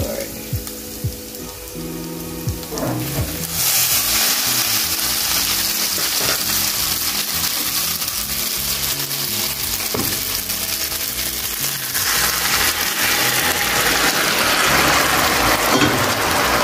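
Drained spaghetti added to a pan of cooking chicken, sizzling; the hiss jumps up sharply about three and a half seconds in and stays loud. Background music plays underneath.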